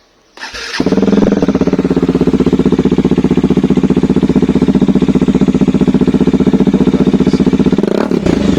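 Bajaj Dominar 400's single-cylinder engine starting up through a newly fitted aftermarket exhaust and settling straight into a loud, steady idle with an even, rapid pulse. Near the end the note shifts.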